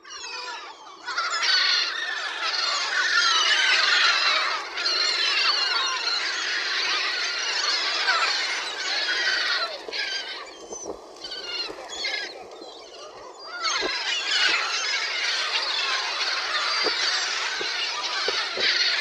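A flock of domestic birds calling all at once while being fed: a dense chorus of many overlapping high squealing cheeps. It thins out for a few seconds just past the middle, then swells again.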